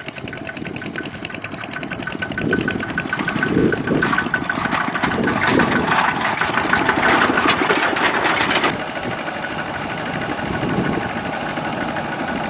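Tractor diesel engine running with a fast knocking beat. It works harder and louder for several seconds, then drops back suddenly about two-thirds of the way in.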